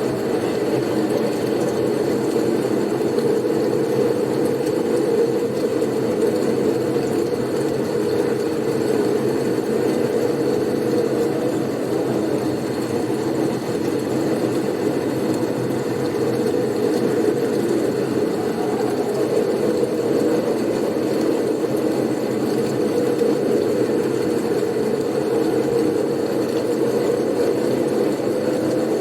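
Blizzard wind blowing steadily as a low, dense rush that swells and eases slowly every several seconds, with a faint high steady whistle above it.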